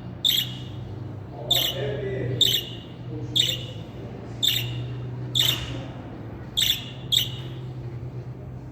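Budgerigar giving short, sharp chirps about once a second, eight or so in all, over a low steady hum.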